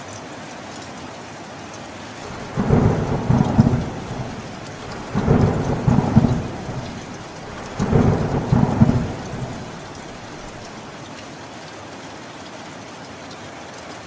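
Steady rain with three rolls of thunder in a row, each about a second and a half long and roughly two and a half seconds apart, the rain going on alone after the last one.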